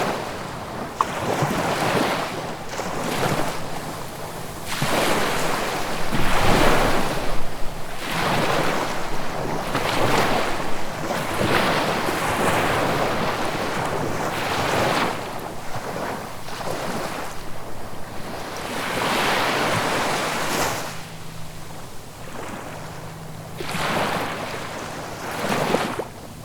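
Sea waves washing in one after another, each a rush of surf lasting a second or two, every couple of seconds.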